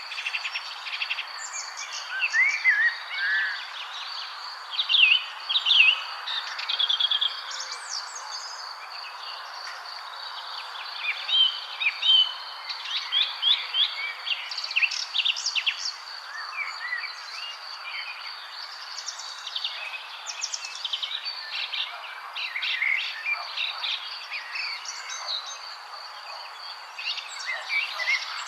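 Several songbirds chirping and trilling in quick, overlapping phrases, over a steady background hiss and a constant high thin tone like an insect.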